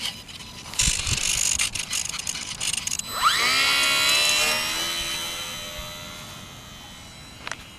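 HobbyZone Carbon Cub S2's electric motor and propeller spinning up with a quickly rising whine about three seconds in, then holding a steady pitch and gradually fading. Before it comes a stretch of rustling, clicking noise.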